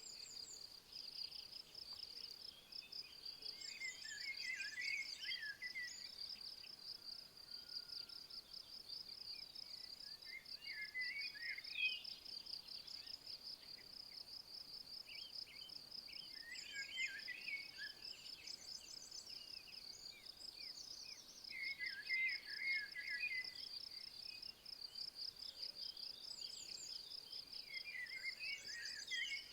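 Insects chirring in a steady, fast-pulsed high trill, with a songbird singing a short phrase about every six seconds.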